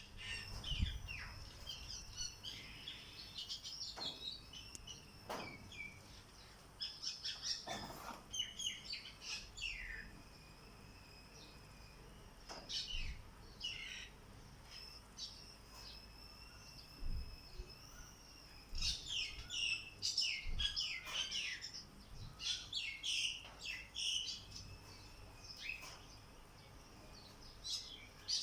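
Wild birds chirping and singing, in clusters of short quick calls and trills with quieter gaps between. A thin steady high note carries on under and between the calls.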